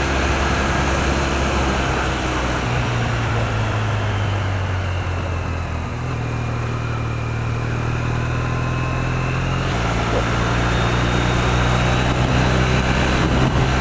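2008 Triumph Bonneville's parallel-twin engine running steadily under way, with wind rushing over the helmet microphone. The engine note shifts a few times.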